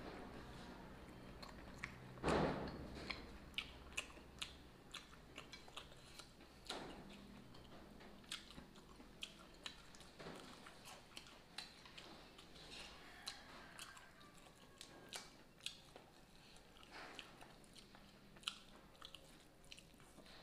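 Close, faint chewing and lip-smacking as a man eats a mouthful of rice by hand, full of small sharp mouth clicks. There is one louder short noise about two seconds in.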